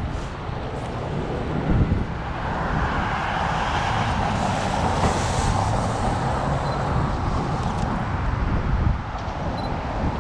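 City street traffic noise with wind buffeting the microphone. A louder rush swells up a couple of seconds in and fades near the end, like a vehicle passing.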